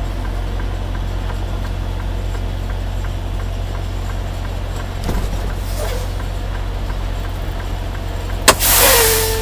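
Semi truck's diesel engine idling as a steady low drone. Near the end, a sharp click and a loud burst of air hiss, typical of the air parking brake being set once the trailer is at the dock.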